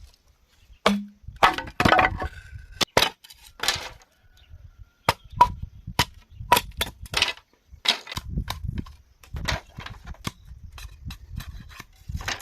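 Sharp blows on bamboo during building work: a string of irregular, cracking knocks, roughly one or two a second.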